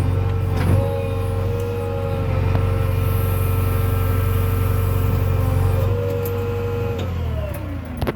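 Heavy diesel engine running at steady high revs under load, with a knock about a second in; near the end the revs fall away.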